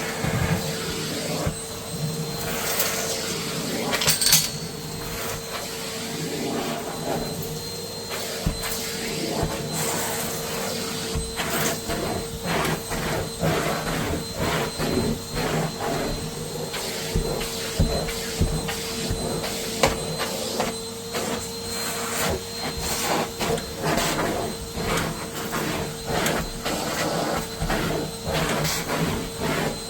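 Numatic Hetty tub vacuum cleaner running with a steady motor whine, while grit and debris crackle and rattle up the nozzle and hose in dense irregular clicks. A sharp clack comes about four seconds in.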